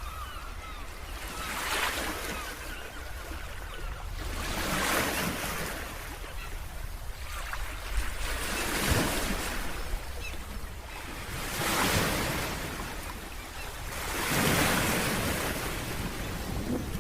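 Ocean waves breaking on a beach, the surf surging about every three seconds, over a low steady rumble of wind on the microphone.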